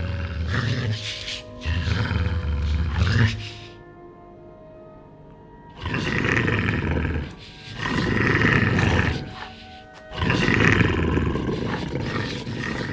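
Five long, rough roars from a werewolf-like creature, each lasting one to two seconds, with a pause of about two seconds after the second, over tense music.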